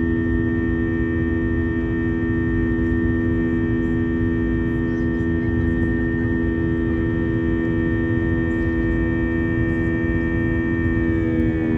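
Jet airliner cabin sound: a steady drone of engine tones over a low rumble. Shortly before the end the tones shift in pitch.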